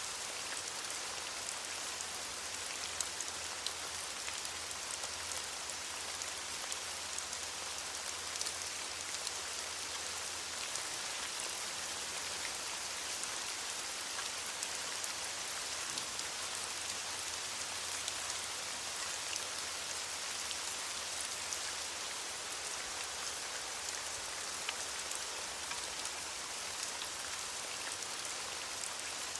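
Steady rain falling on leaves: an even hiss with many small, scattered drop patters.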